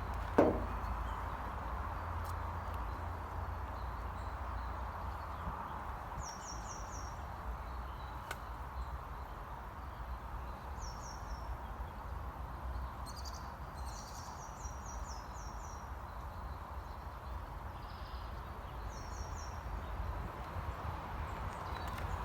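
A small bird's high calls in short runs of three or four quick notes, repeating every few seconds over a steady low rumble of wind in the woods. A single sharp knock about half a second in.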